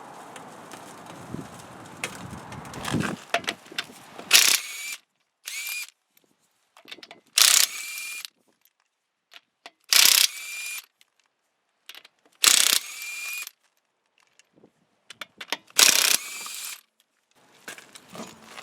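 Cordless electric ratchet run in six short bursts a couple of seconds apart, its motor note rising at the end of each burst. Rustling handling noise comes before the first burst.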